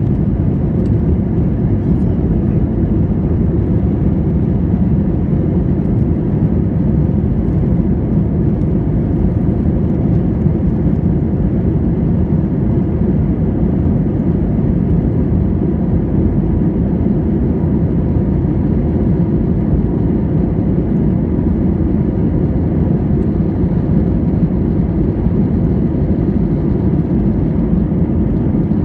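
Steady low rumble inside the cabin of an Airbus A320 airliner: engine and airflow noise heard from a passenger seat, even and unchanging throughout.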